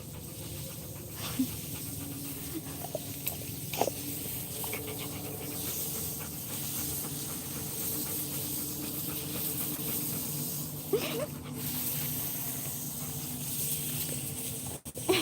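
Dog panting steadily, with a few brief sharp sounds.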